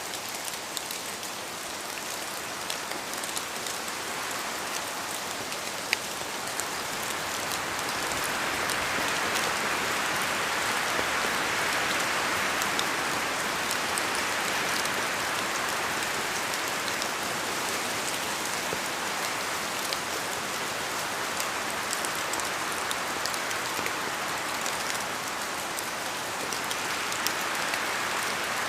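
Steady rain falling in a forest, a dense hiss of drops with many separate small patters, swelling louder for several seconds partway through and easing again.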